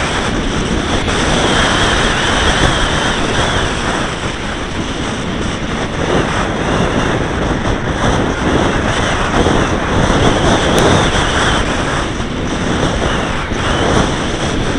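Steady rushing wind buffeting the microphone of a small camera carried on a flying RC model aircraft, with the model's motor running underneath.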